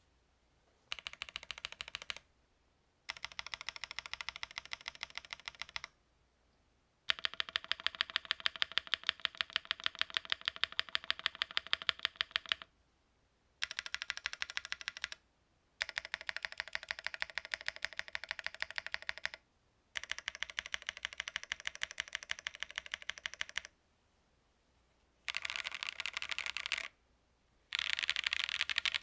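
Typing on a MonsGeek M1 mechanical keyboard with a PC plate, lubed WS Quartz switches and GMK keycaps. The keys are struck in fast runs of many clicks, broken by short pauses, with the longest run around the middle.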